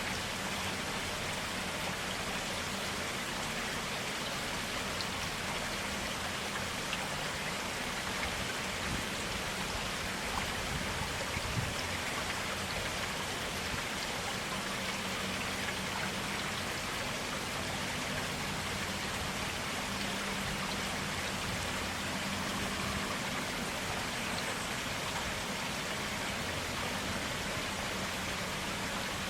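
Clear stream water flowing steadily over stones, a constant babbling rush.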